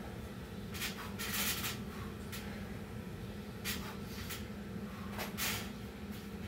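A person breathing hard between sets of burpees and pull-ups, with several loud, hissing exhalations a second or so apart, over a steady low hum.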